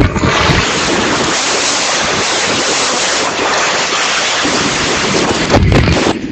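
Typhoon wind buffeting the microphone with heavy rain, a loud steady rushing noise that gusts harder near the end.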